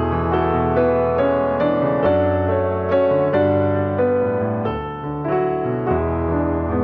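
Slow piano music: a melody of single notes struck about two or three times a second over held bass notes that change every couple of seconds.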